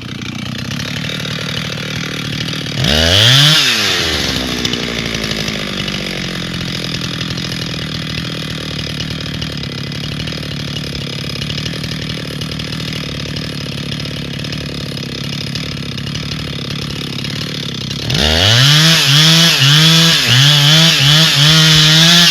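Two-stroke chainsaw running. It revs up once and falls back about three seconds in, runs steadily, then near the end is revved hard several times in quick succession with short dips between.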